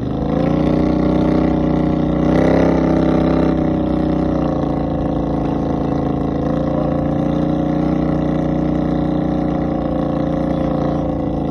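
Motor vehicle engine running steadily under way. Its pitch rises a little about two seconds in and eases back a couple of seconds later.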